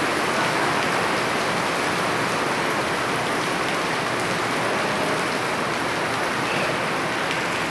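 Heavy rain pouring down and splashing on surfaces, a steady hiss.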